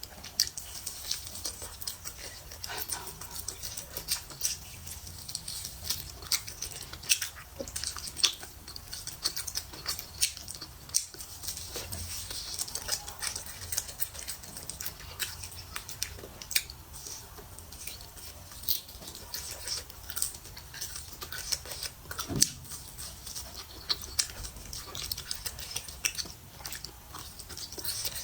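A person chewing and biting food close to the microphone, with many irregular wet, sticky mouth clicks and smacks.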